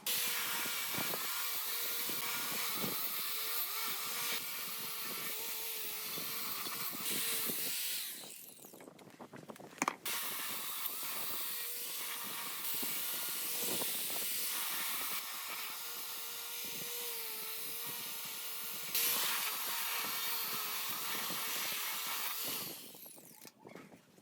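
A handheld power tool running under load in two long runs, about eight seconds and then about thirteen, with a short stop between them. It makes a steady whine over a loud hiss.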